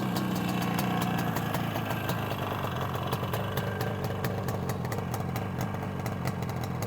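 1973 Yamaha RD350's air-cooled two-stroke parallel-twin engine idling steadily.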